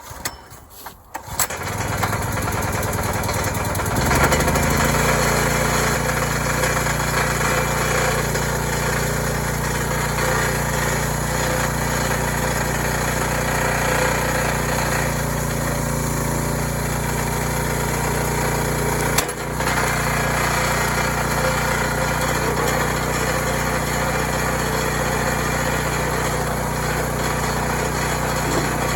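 Log splitter's small engine starting: it catches about a second and a half in, picks up speed at about four seconds, then runs steadily, with one sharp knock about two-thirds of the way through.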